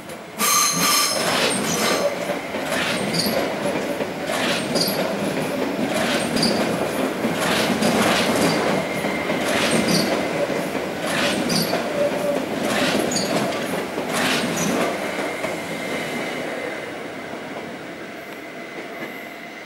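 SOB RABe 526 Traverso electric train passing close by, its wheels clacking over rail joints in quick pairs about once a second above a steady rolling rumble. It fades away over the last few seconds.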